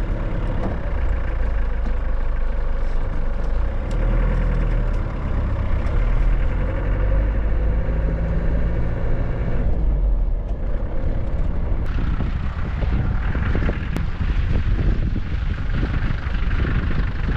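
Pickup truck driving: a steady engine and road rumble, with a hissier, thinner sound in the last few seconds.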